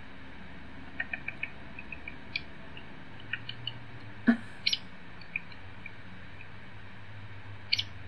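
Hairy woodpecker calls played from a recording through a laptop speaker: scattered short, high, quiet notes, mouse-like or cricket-like, with a quick run of four about a second in and a louder sharp note a little past the middle, over a steady hiss.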